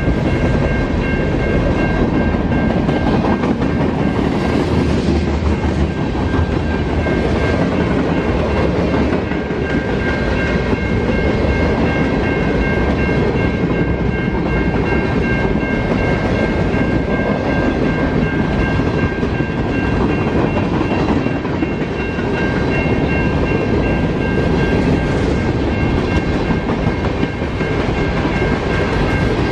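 Freight cars of a Canadian National northbound manifest train (boxcars, centerbeam flatcars, covered hoppers and tank cars) rolling past at speed, a steady heavy rumble of steel wheels on rail. Steady high-pitched ringing tones run over the rumble throughout.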